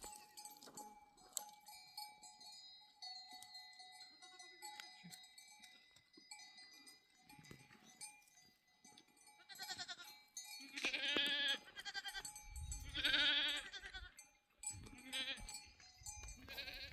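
Flock animals bleating, several loud wavering bleats about ten to fourteen seconds in, over a thin steady ringing of livestock bells.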